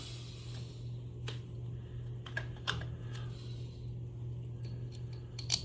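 A few light clicks and taps of small metal motor parts being handled and fitted together by hand, the sharpest near the end, over a steady low hum.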